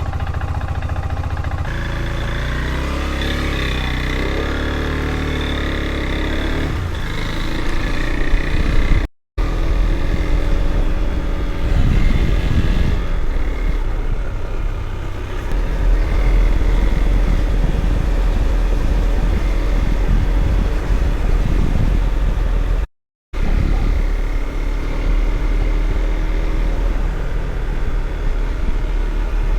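Husqvarna Svartpilen 401 single-cylinder motorcycle engine running on the move, its pitch shifting up and down for several seconds as the throttle and gears change, with a heavy low wind rumble on the microphone. The sound cuts out completely twice for a moment.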